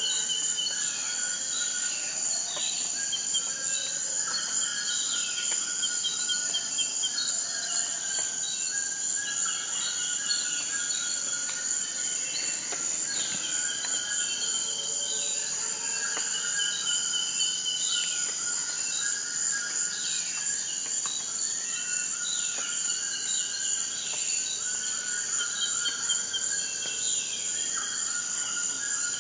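Insects trilling as a steady high-pitched chorus, with birds chirping short repeated calls over it.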